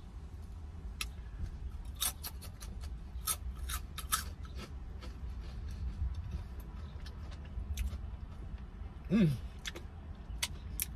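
Close-up eating of a crunchy chip: a run of sharp, irregular crunches over the first few seconds, thinning out into quieter chewing. Near the end comes a short vocal sound that falls in pitch.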